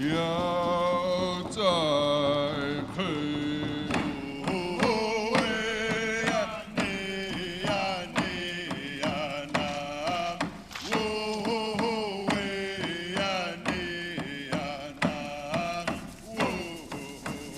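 Chanted singing with a wavering pitch that breaks and restarts every second or so, over scattered percussion strikes.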